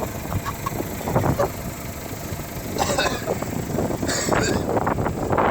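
Jeep Liberty CRD's 2.8-litre four-cylinder VM Motori turbo diesel engine running, with muffled voices now and then.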